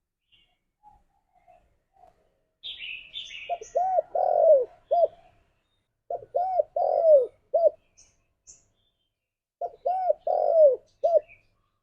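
Spotted dove cooing, three phrases a few seconds apart. Each phrase has about four notes, the third longer and falling in pitch. A smaller bird's high chirps come just before the first phrase.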